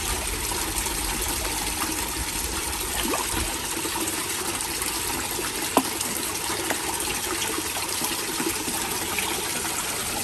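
Steady rushing water, with a brief sharp click about six seconds in.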